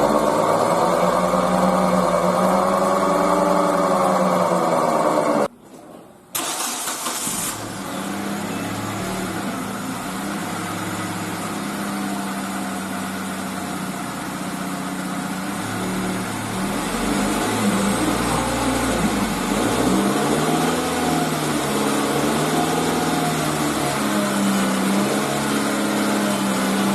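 Hyundai Elantra engine running in gear with the front wheel spinning freely, revs rising and falling, with a brief cut-out about five seconds in. No bearing hum is heard: the newly fitted wheel bearing has cured the noise caused by the old, oil-starved bearing.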